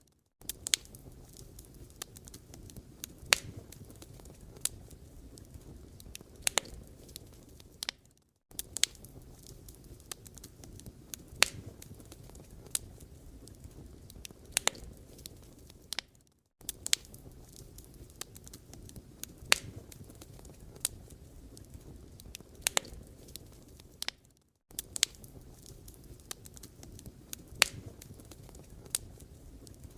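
Wood fire crackling, with sharp pops and snaps at irregular intervals over a low steady rustle. The sound cuts out for a moment about every eight seconds.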